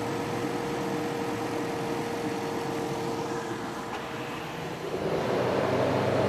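A running pickup's 3.5-litre V6 idling with the A/C on max, a steady whir with a hum through it. The hum drops out about four and a half seconds in, and a louder rushing noise takes over about five seconds in.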